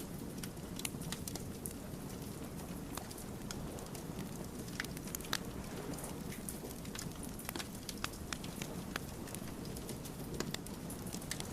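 Wood fire crackling, with irregular sharp pops and snaps of burning logs over a steady low rumble of the flames.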